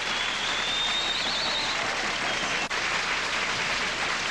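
Audience applauding after a song, with one high whistle rising and wavering over the clapping for about the first second and a half.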